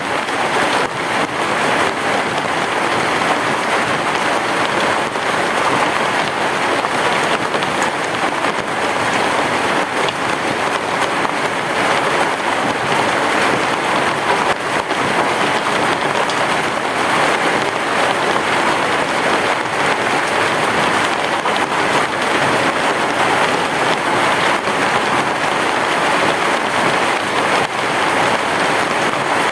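Heavy rain falling steadily, a dense even hiss of drops with no break or swell.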